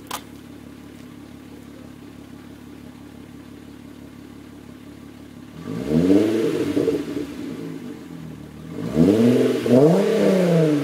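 MK3 Volkswagen Jetta's 2.8-litre VR6 engine through a Magnaflow cat-back exhaust, idling steadily, then blipped twice, the pitch rising and falling with each rev, the second rev more than halfway through. A short click at the very start.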